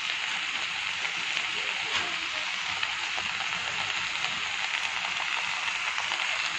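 Taro stems and leaves with tomatoes and ginger-garlic paste sizzling steadily in hot oil in a kadai.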